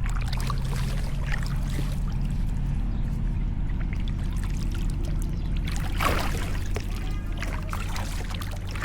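Kayak paddle strokes dipping and splashing in river water, the strongest splash about six seconds in, over a steady low rumble.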